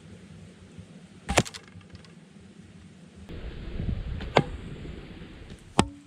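Traditional bow being shot at stumps: three sharp cracks of string release and arrow impact, one about a second and a half in, one in the middle and one near the end, with a brief rushing swell before the second.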